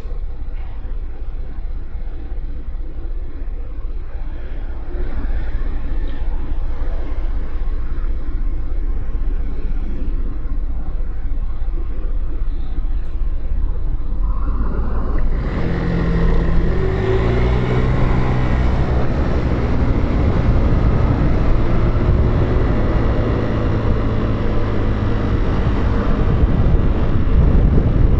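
Motorcycle engine and wind noise heard from the rider's position. For about the first half it runs steadily low, then about halfway through it accelerates hard, its pitch climbing in steps as it shifts up through the gears, and it stays louder to the end.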